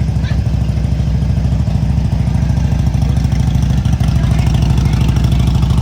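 Motorcycle engine running steadily close by, a loud low rumble of rapid, even exhaust pulses.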